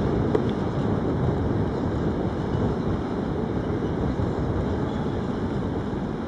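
Wind buffeting the microphone: a steady low rumbling noise with no distinct tones.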